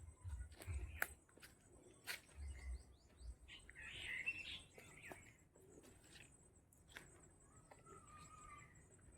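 Faint birds chirping and calling, loudest about four seconds in, with a short whistled note near the end. A low pulsing rumble runs through the first few seconds, and there are scattered clicks.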